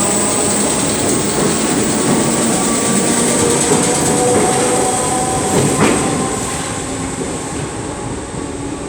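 Merseyrail class 508 electric multiple unit pulling away from the platform: a steady rumble of wheels on rail with a whine of several steady tones from the running gear, fading away over the last few seconds as the train leaves.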